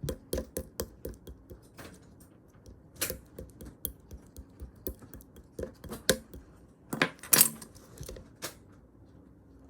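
A wrapped chewy lemon candy being handled: irregular sharp clicks and short crinkly crackles, with a loud cluster about seven seconds in.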